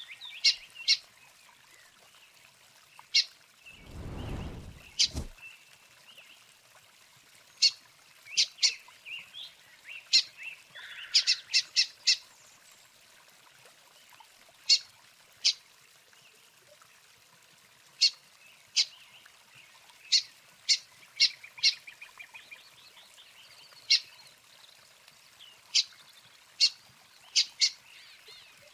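A bird giving short, sharp, high call notes at irregular intervals, sometimes singly and sometimes in quick runs of two to four. A brief low rumble about four seconds in.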